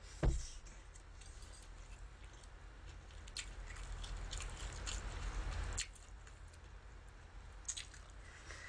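Close-miked eating sounds: chewing a bite of pan-fried meatball patty taken with metal chopsticks, with scattered light mouth and chopstick clicks. A single dull thump comes just after the start, and a soft hiss swells in the middle and stops suddenly about six seconds in.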